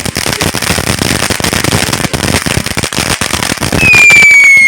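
Vulcão fountain firework spraying with a dense, fast crackle. Near the end a very loud high whistle cuts in and falls slightly in pitch.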